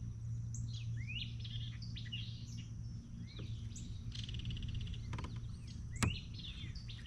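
Songbirds singing and calling: many short rising chirps and whistles, with a rapid trill about four seconds in. A single sharp click about six seconds in.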